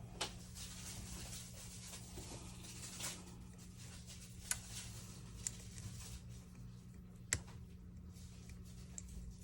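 Small sharp clicks and taps of repair tools and phone parts being handled on a workbench, about five of them with the loudest near the end, over a steady low hum.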